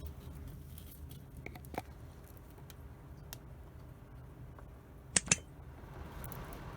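Small scattered clicks over a low steady hum, with two sharp, louder clicks in quick succession about five seconds in, followed by a soft rising hiss.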